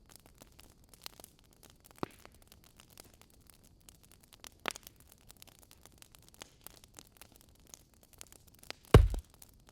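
Wood fire crackling in a fireplace: scattered snaps and pops over a low hiss, with a louder snap about two seconds in and another near the middle. A single heavy knock comes near the end.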